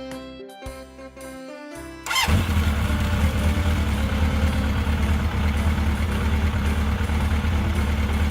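Music with a melody, then about two seconds in a vehicle engine starts abruptly and runs with a loud, steady low rumble.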